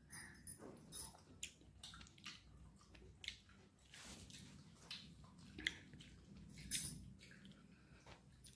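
Faint wet chewing of soft rice-flour chilka roti, with small mouth clicks at irregular intervals.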